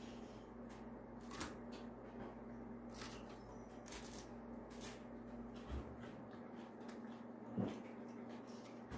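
Faint, scattered crackles and clicks from a wood fire burning in a fireplace, over a low steady hum, with one louder crack about three-quarters of the way through.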